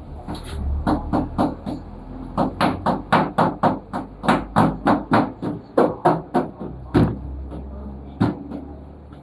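A rapid series of sharp knocks, about four a second, starting about a second in and stopping near 7 s, with one more strike just after 8 s.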